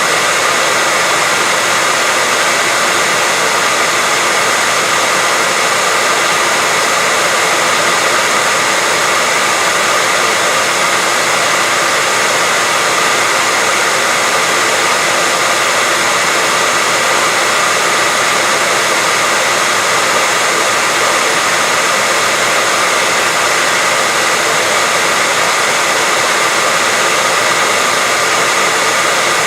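Steady white noise: a loud, even hiss that never changes, spread across the mid and high range with little deep bass.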